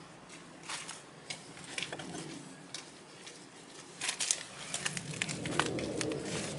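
Scattered light clicks and taps of metal tools and parts being handled, busier from about four seconds in.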